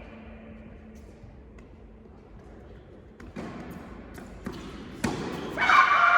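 Tennis ball impacts on an indoor court: three sharp knocks in the second half, the last the sharpest. Near the end they are followed by a loud voice.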